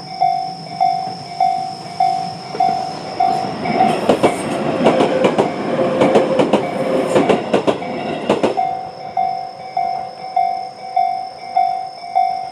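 Tobu 20400 series train passing over the level crossing for about five seconds, its wheels clicking rapidly over the rail joints. Throughout, the crossing's electronic warning bell (Tobu sound C, slow-tempo type) dings about one and a half times a second, and it keeps ringing after the train has cleared.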